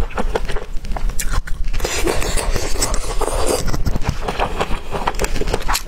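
Close-miked chewing and biting of bamboo shoot: a run of short, wet crunching clicks, with a denser scraping, rustling stretch from about two to three and a half seconds in.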